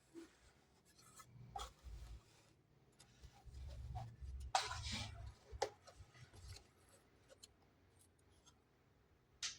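Hands handling packaging and small miniature pieces during an unboxing: scattered light clicks, rustling and scraping, with dull low bumps.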